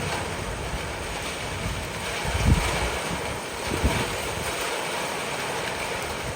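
Steady hiss of light rain and wind, with two short low rumbles about two and a half and four seconds in.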